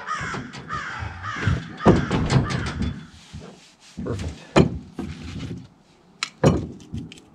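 A bird cawing in a quick repeated series for the first couple of seconds. This is followed by several sharp knocks, the loudest about two, four and a half and six and a half seconds in.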